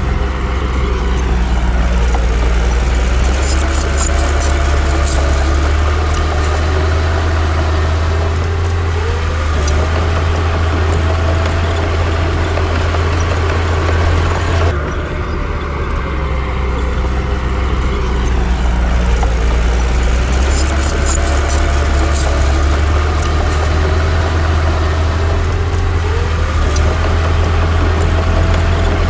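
Komatsu D60 bulldozer's diesel engine working under load, a steady low rumble whose pitch sags and climbs back up several times, with bursts of metallic clicking and clatter. The sound briefly drops about halfway through.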